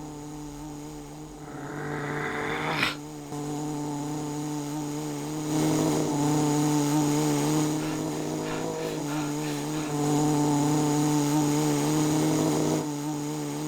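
A person's voice imitating a monster truck engine running, a low steady drone that wavers slightly. About three seconds in, a rising hiss ends in a click, and the drone gets louder about halfway through.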